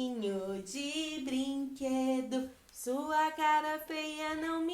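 A woman singing a children's roll-call song, one unaccompanied voice on held, steady notes.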